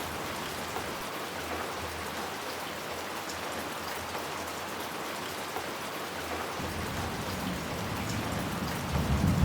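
Steady rain falling, an even hiss. A low rumble of thunder begins to build about two-thirds of the way through and swells near the end.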